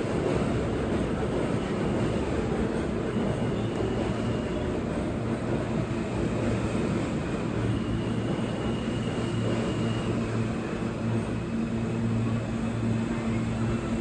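New York City subway train at a station platform: a steady rumble with a low hum that grows stronger about halfway through.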